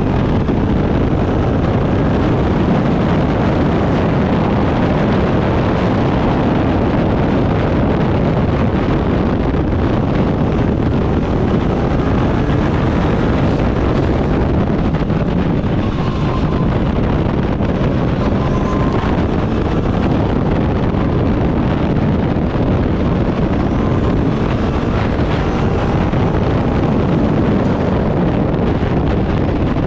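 Turbocharged Backdraft Cobra race car at speed: its engine runs hard under heavy wind noise on the microphone, with the engine pitch faintly rising and falling as the revs change.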